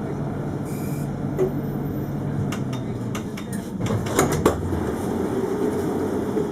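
Alstom Citadis 402 tram heard from inside, running with a steady low rumble. A cluster of sharp clicks and knocks comes between about two and a half and four and a half seconds in.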